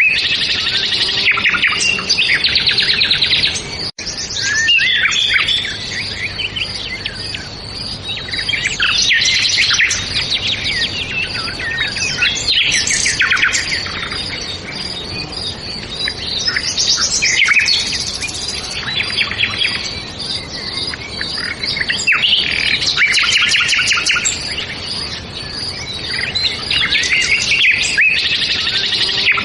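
A chorus of songbirds chirping and trilling, many quick calls overlapping without a break. There is a momentary dropout about four seconds in.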